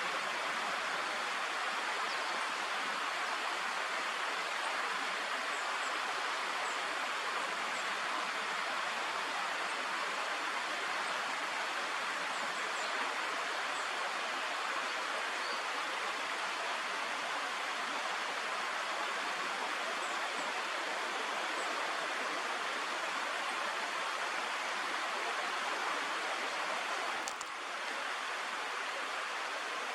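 Steady rushing of flowing water, like a stream, with faint, short, high-pitched bird calls here and there over it. The rush dips slightly and briefly breaks near the end.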